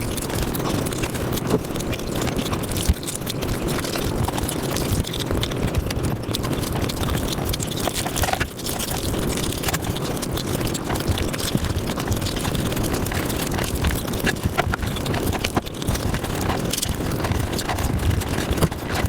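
Mukbang eating sounds played at high speed: a dense, unbroken stream of rapid chewing, smacking and mouth clicks.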